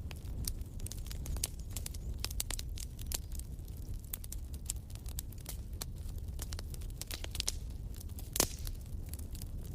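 Fireplace fire crackling: irregular sharp snaps and pops over a steady low rumble, with one louder pop near the end.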